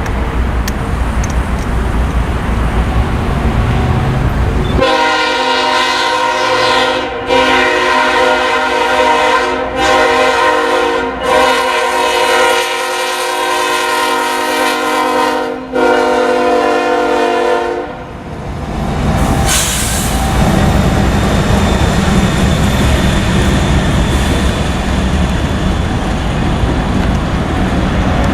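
Freight diesel locomotive's air horn sounding the grade-crossing signal: long, long, short, long, then a further blast, over about 13 seconds. The rumble of the passing freight train runs before and after the horn.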